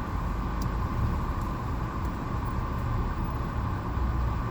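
Car engine idling, heard from inside the cabin: a steady low rumble.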